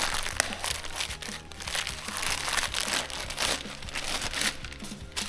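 Irregular scraping, crunching and crinkling handling noises from hands and tools working on the camper's rusted brake master cylinder.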